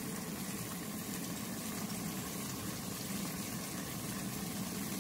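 Tofu slices sizzling steadily in oil in a frying pan.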